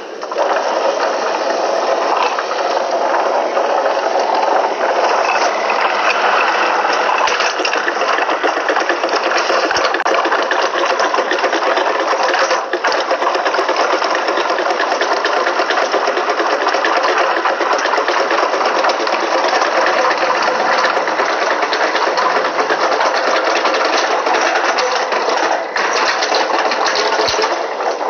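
A small motor running steadily with a fast, even mechanical chatter.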